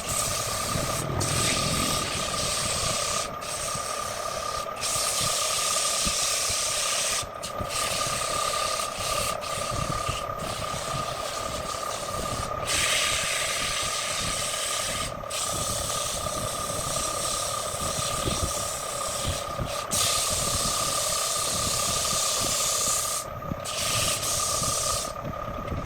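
Wood lathe running with a steady motor whine while sandpaper or a turning tool rubs against the spinning wood, a hissing rasp that breaks off briefly several times as it is lifted.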